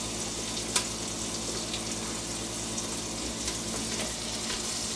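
Thyme, garlic and chopped onion sizzling in hot butter and oil in a pot, a steady frying hiss, with one light click about a second in.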